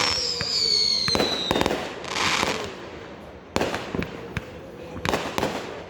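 Fireworks going off: a high whistle falling slowly in pitch over the first second and a half, a hissing burst, and a string of sharp bangs spread through the rest.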